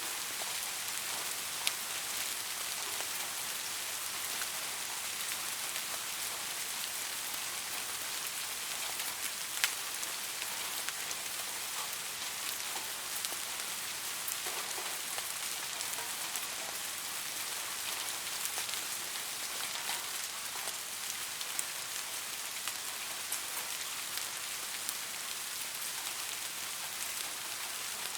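Steady rain falling on a surface, an even hiss with many individual drops ticking through it and a couple of louder drops near 2 s and 10 s in.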